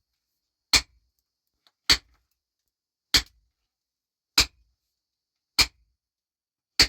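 Hammer blows on rock struck in a steady rhythm: six hard, sharp strikes, about one every 1.2 seconds.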